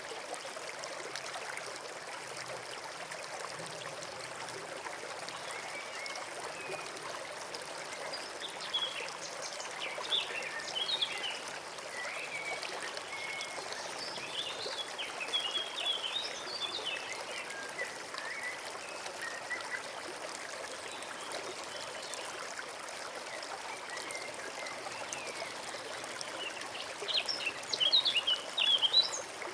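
Forest brook trickling steadily, with small birds chirping over it at intervals, the loudest burst of chirps near the end.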